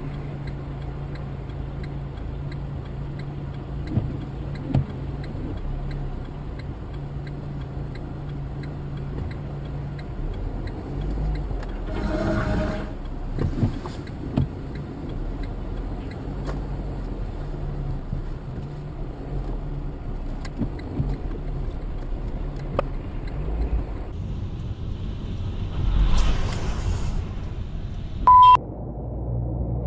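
Vehicle engine and road noise picked up by a dashcam inside a moving vehicle: a steady low hum and rumble, with a few knocks and two brief swells of noise. A short, loud beep sounds near the end.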